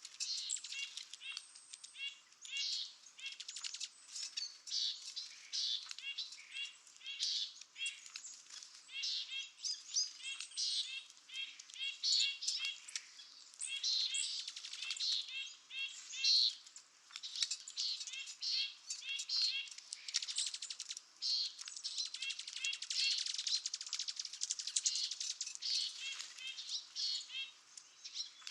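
Birds chirping and twittering: a dense, continuous stream of short, high-pitched notes with quick clicking in between.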